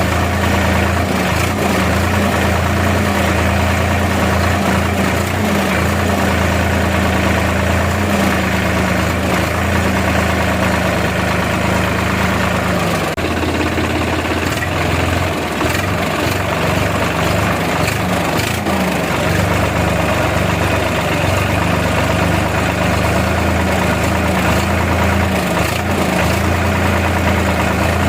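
Tractor's diesel engine running steadily with a low, even hum; the hum wavers and breaks up for several seconds around the middle, then settles again.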